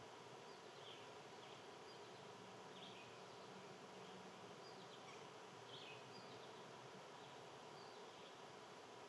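Near silence with a faint insect buzz through the middle and a scattering of short, high bird chirps.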